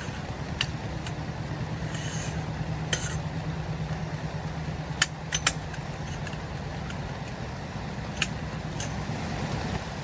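Rain falling, with scattered sharp ticks of drops striking a hard surface over a steady low rumble.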